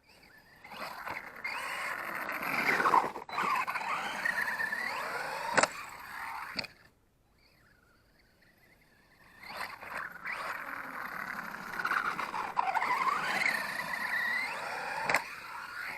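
Reely New1 RC monster truck's electric motor whining up and down in pitch as the truck speeds up and slows, in two runs with a pause of a couple of seconds between them. A few sharp knocks are heard.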